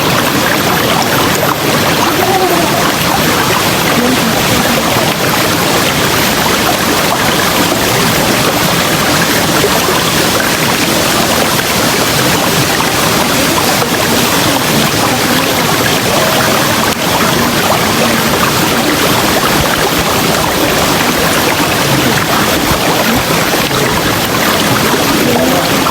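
River water flowing, a loud, steady, even rush of water.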